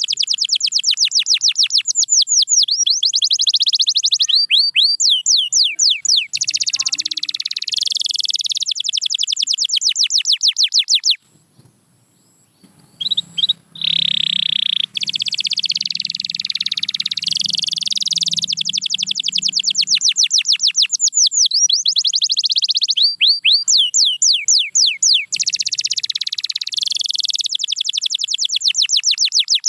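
Domestic canary singing a long, continuous song of fast trills and rolls of rapidly repeated high notes. It breaks off briefly about eleven seconds in, then resumes.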